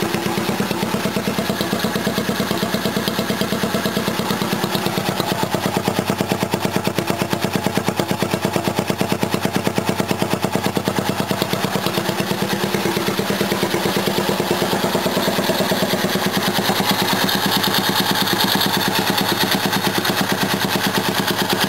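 Mini bike engine idling steadily through a straight pipe with no muffler, an even rapid firing beat after a tune-up that has it running well.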